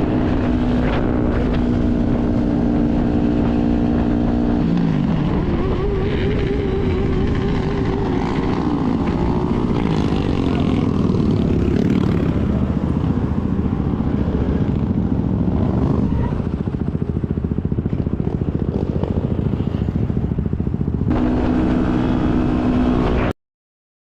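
Motorcycle engine running at a steady pitch, then the revs dip and climb as it pulls away and rides on, the pitch rising and falling, with a steady rushing noise underneath. Near the end the engine note settles steady again, and the sound cuts off suddenly.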